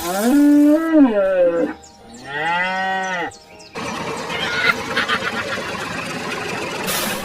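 Two long cow moos, the first falling in pitch at its end, followed by a few seconds of dense, steady noise.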